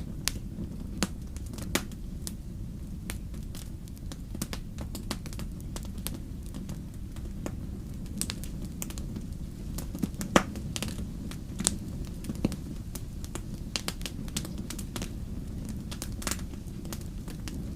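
Wood fire crackling: irregular sharp pops and snaps over a steady low rumble of burning, with one louder pop about ten seconds in.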